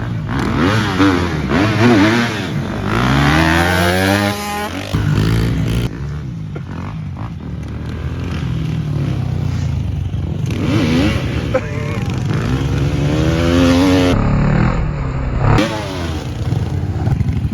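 Motorcycle engines revving hard as bikes race by, the pitch climbing through the gears and dropping again, several times over.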